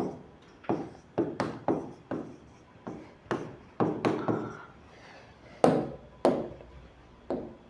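About a dozen short, irregular taps and knocks of writing strokes on a hard writing surface as a formula is written out.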